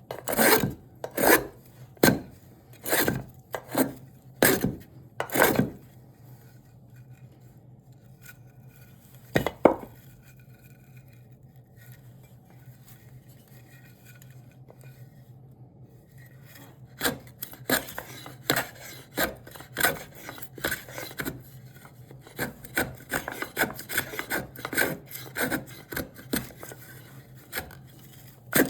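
A hand tool working a piece of cherry wood in repeated scraping strokes, about one a second at first. The strokes pause for several seconds, then resume faster and lighter. A steady low hum runs underneath.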